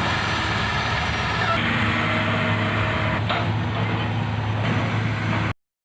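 Excavator's diesel engine running steadily with a constant low hum; it cuts off suddenly near the end.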